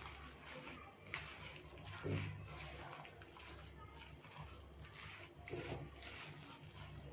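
Faint, soft wet squelching and rustling of raw minced-chicken momo stuffing being mixed in a bowl, in irregular strokes with a few louder squishes, over a steady low hum.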